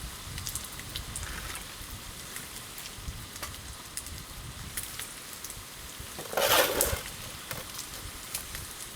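Wood campfire crackling, with scattered sharp pops throughout and a short, louder burst of hiss about six and a half seconds in.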